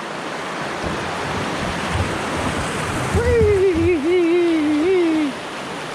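Rushing water of a shallow river rapid as a kayak runs through it, getting louder. About three seconds in, a man's voice gives one long wavering exclamation that lasts about two seconds.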